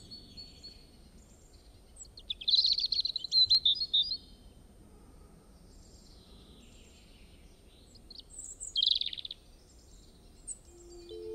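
Birds calling and chirping over a faint steady background hiss. There is a loud stretch of rapid, high chirps about two seconds in that lasts around two seconds, a shorter loud burst later, and fainter calls in between.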